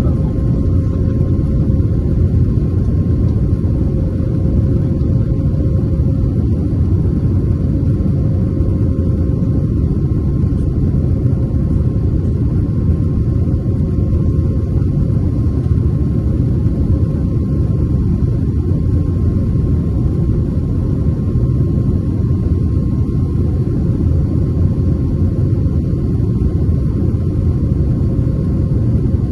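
Airbus A320 cabin noise in flight: the steady deep rumble of the engines and the airflow, heard from inside the cabin. A faint high steady tone runs through it, and a lower one fades out about eight seconds in.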